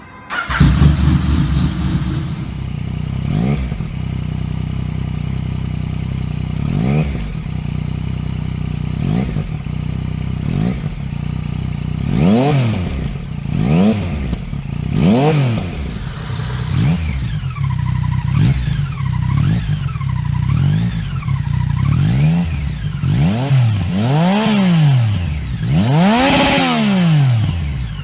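Yamaha MT-09 (FZ-09) inline three-cylinder motorcycle engine starting, then idling with a few short throttle blips. About twelve seconds in, repeated free revs begin, each rising and falling in pitch, several of them high, with a crackle from the exhaust.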